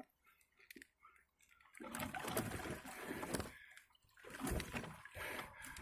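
Water splashing and sloshing in irregular bursts, starting about two seconds in and coming again near the end.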